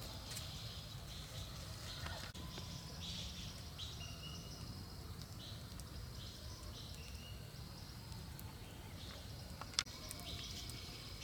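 Outdoor forest ambience: short high-pitched chirping calls repeating again and again over a steady low rumble, with one sharp click about ten seconds in.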